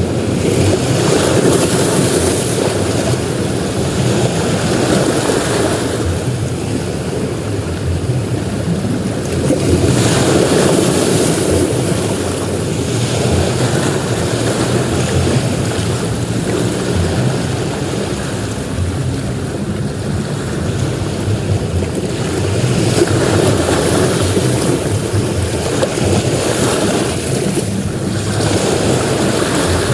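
Ocean surf breaking on a beach in a steady wash of noise, swelling with each incoming wave every several seconds and easing between them.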